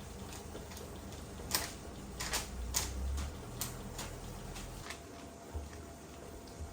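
A handful of light, irregular clicks and knocks, as of small objects being handled, over a faint low hum.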